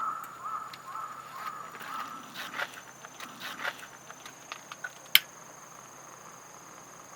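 Crows cawing in a run of repeated calls for the first two seconds. Then scattered light clicks and one sharp loud snap about five seconds in, over a steady high insect drone.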